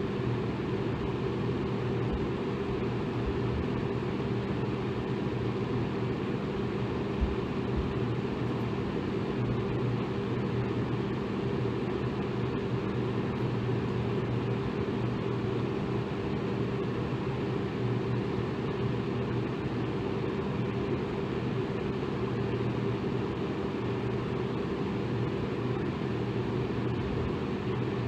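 Electric fan running steadily: a constant whooshing hiss with a low motor hum underneath.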